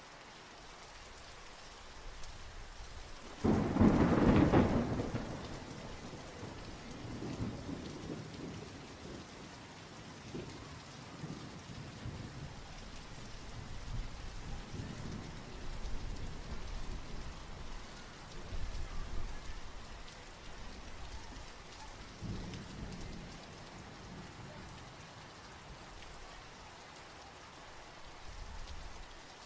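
Steady rain falling, with a loud crack of thunder about three and a half seconds in that rolls on for a couple of seconds, then softer low rumbles of thunder coming and going.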